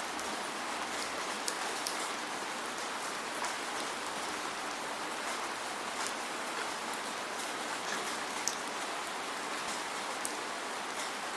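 Steady rain, an even hiss with many scattered individual drop ticks and no thunder.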